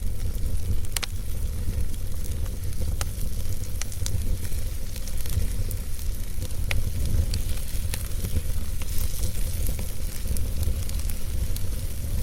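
Wood fire in a fireplace crackling, with scattered sharp pops (the strongest about a second in, at three seconds and near seven seconds) over a steady low rumble.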